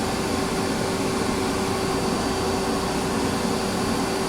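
Vacuum used for dryer vent cleaning running steadily, a constant whir with a steady hum.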